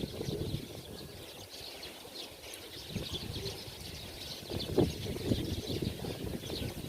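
Many small birds chirping without pause: a busy chorus of short, high chirps overlapping one another. Low rumbles and knocks sit underneath, the loudest about five seconds in.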